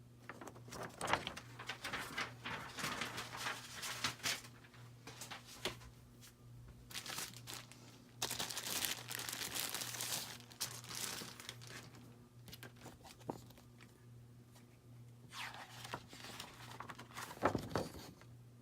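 Packing material being crinkled, crumpled and torn by hand while a ceiling fan is unpacked, in irregular rustling spells, with a knock near the end.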